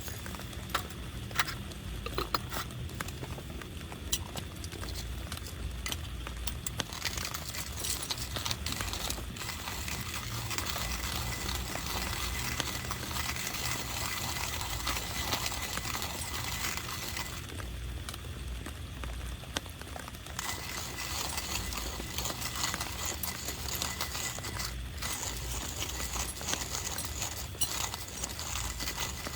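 Rain pattering steadily on a tarp, with many small drips and taps; the patter thickens a few seconds in and eases briefly past the middle.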